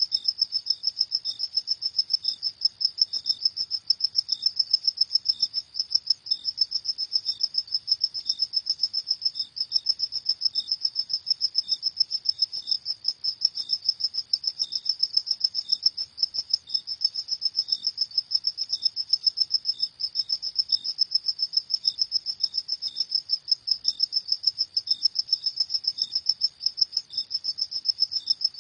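Crickets chirping in a rapid, even, high-pitched pulsing song that never breaks. Fainter, sparser chirps sound a little lower in pitch.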